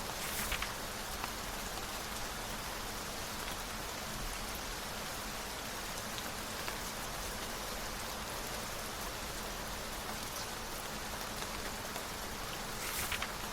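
Steady rain falling on a surface, an even hiss throughout. Twice, just after the start and again near the end, a brief papery rustle of a book page being turned rises over it.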